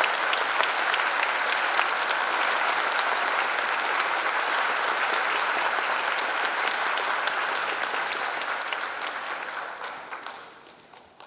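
Audience applauding, a dense patter of many hands clapping that thins and fades away near the end.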